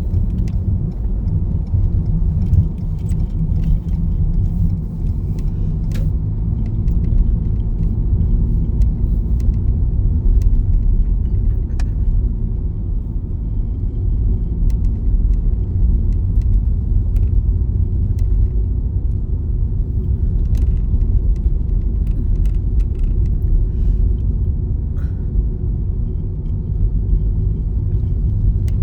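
Steady low rumble of a car driving on a snowy road, heard from inside the cabin: tyre and engine noise, with a few faint light clicks.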